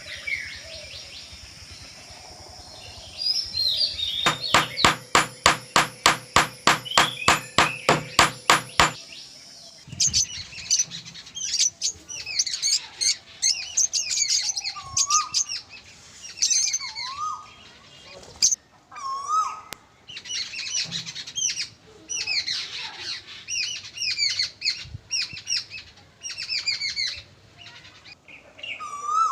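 Birds chirping and twittering, with a run of even knocks, about two or three a second, through the first part that stops about nine seconds in.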